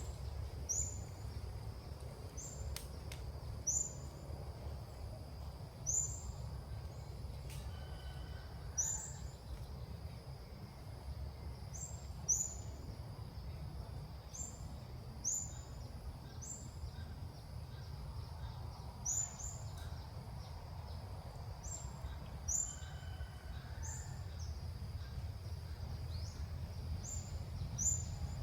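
Ốc mít bird giving short, high chirps, one every two to three seconds, over a steady low rumble and a thin steady high whine.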